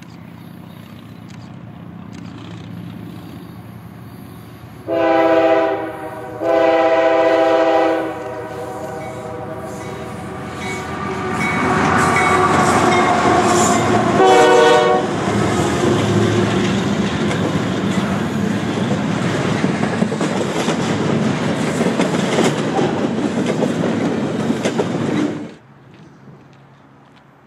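A train's horn sounds two long blasts, then a short third blast several seconds later, as the train nears and passes close by. The rumble and wheel noise of the passing train run loud, then cut off suddenly near the end.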